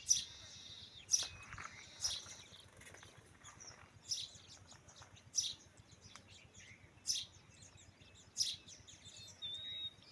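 A bird chirping outdoors: short, sharp high calls repeated every second or so, with a brief whistled note near the end.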